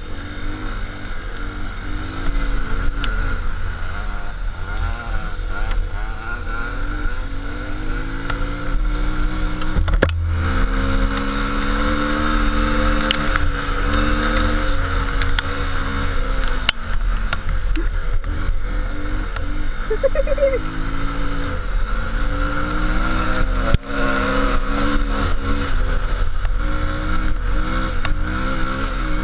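Motor vehicle engine running under way, its pitch drifting up and down as the speed changes, with steady road noise and a few sharp knocks.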